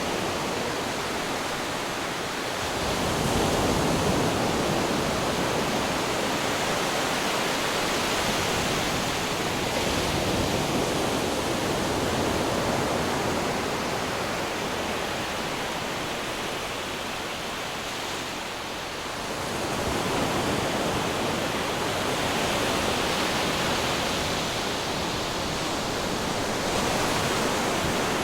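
Ocean waves breaking on rocks: a continuous rushing wash of surf that swells in loudness every several seconds as waves come in.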